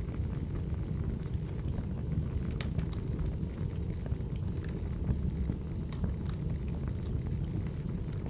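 Firewood burning: a steady low roar with scattered sharp crackles and pops from the logs.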